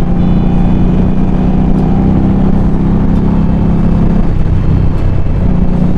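Indian Scout motorcycle's V-twin engine running under way, its steady note mixed with rushing noise. The engine note eases off about four seconds in and picks up again near the end.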